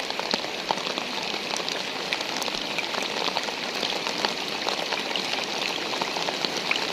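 Steady rain falling, with many separate drops tapping through the even hiss.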